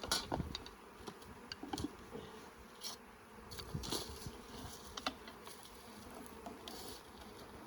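Honeybees buzzing steadily around an open hive, with a few short clicks and knocks scattered through.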